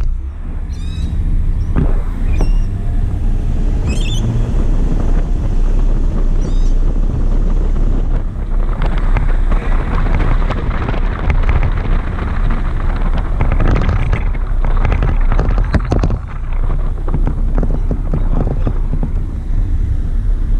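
Loud wind buffeting the microphone of an action camera riding on the roof of a moving car, over a steady low rumble from the road and car.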